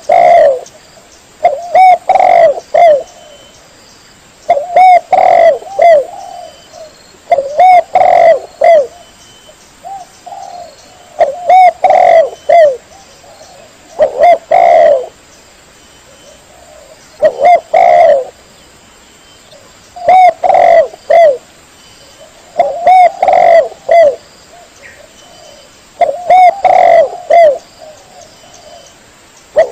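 Spotted dove (tekukur) cooing: loud phrases of several short, hollow coo notes, repeated about every three seconds. This is a recorded call track of the kind used to lure doves when hunting.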